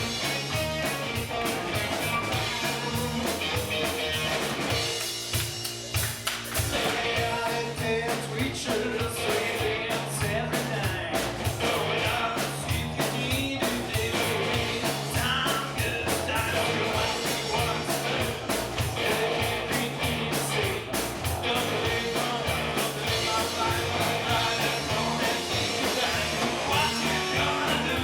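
Live rock band playing a song, guitar over bass and drums with a steady beat; the sound thins briefly about five seconds in.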